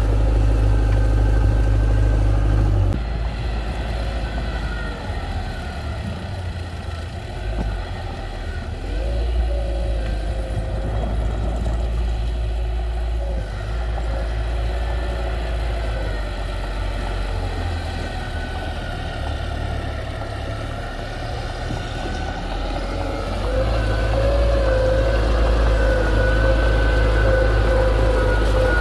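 Diesel engine of heavy construction machinery running steadily, dropping in level about three seconds in and growing louder again near the end.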